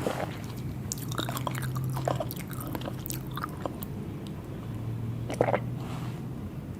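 Close-miked chewing and biting of seafood, with scattered short wet clicks over a low steady hum.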